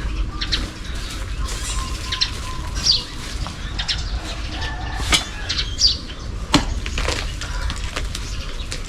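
Birds chirping in short high calls over a steady low rumble, with scattered light knocks and rustling from handwork; the sharpest knocks come about five to seven seconds in.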